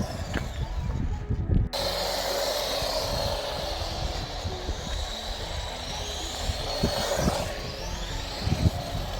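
Small brushed electric motors of 1/16-scale RC monster trucks whining as they drive, with tyre noise on tarmac; the whine rises and falls with the throttle near the end.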